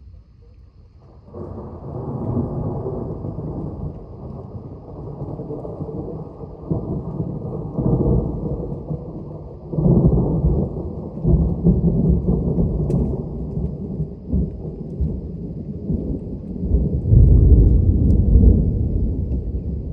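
Long rolling thunder from a nearby thunderstorm. It breaks in suddenly about a second in and keeps rumbling, growing louder about halfway through and loudest near the end.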